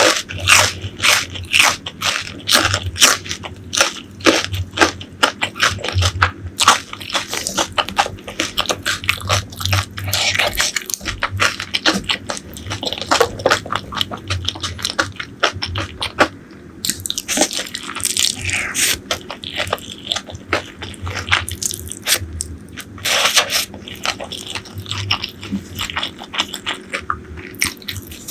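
Close-miked eating of crispy fried food: a long run of sharp crunching bites and chewing, with a few longer noisy stretches of chewing partway through.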